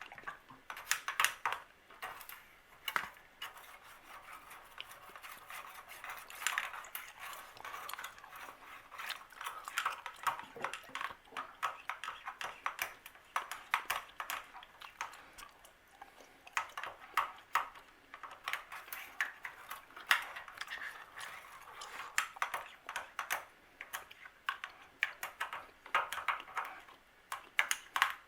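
Wire coat hanger being poked and scraped inside a water heater drain valve clogged with sediment, making irregular metallic clicks and scrapes.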